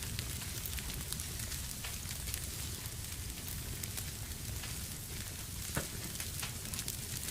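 Wood fire burning in a fireplace, a steady hiss and rumble with frequent small crackles and one louder pop about six seconds in.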